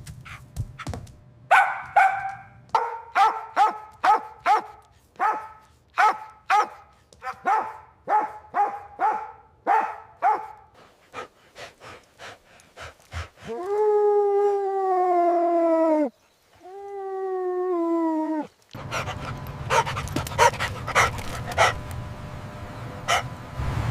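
A puppy yapping in a steady run of high barks, about two a second, fading near the middle, then two long whines that fall in pitch. After them comes a noisier stretch with scattered clicks.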